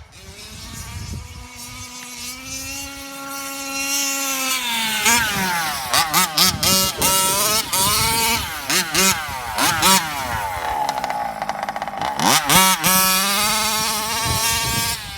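Losi 5ive RC car's CY 27.2cc two-stroke engine with a DDM tuned pipe, running at a steady pitch and growing louder, then revving in repeated quick rises and falls as the throttle is worked. It settles lower briefly about two-thirds through, then revs again near the end.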